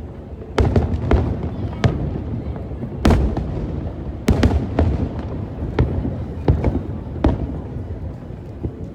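Aerial firework shells bursting in quick, irregular succession: about ten sharp bangs over a continuous low rumble.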